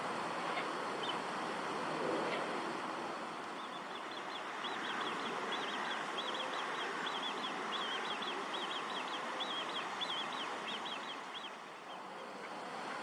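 A small songbird singing a long, fast run of short high notes for several seconds, over a steady background of noise.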